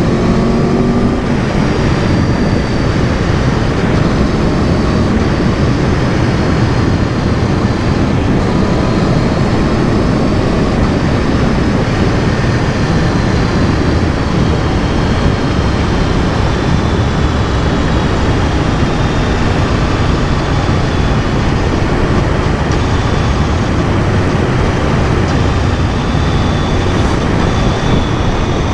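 Aprilia Tuono V4 Factory ridden at speed: the V4 engine running under a steady rush of wind noise, its pitch drifting slowly up and down.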